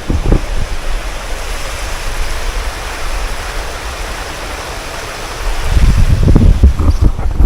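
Water rushing over a river weir, a steady hiss. From about six seconds in, low buffeting on the microphone comes in over it.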